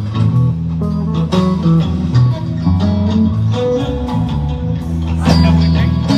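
Live rock band playing an instrumental passage: guitar lines over a moving electric bass line, with no singing.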